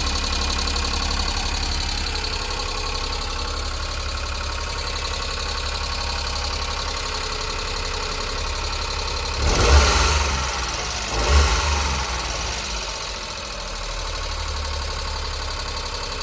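Daihatsu Hijet Jumbo S83P kei truck's 660 cc three-cylinder engine idling, blipped twice in quick succession a little over halfway through, each rev short and then dropping back to a steady idle.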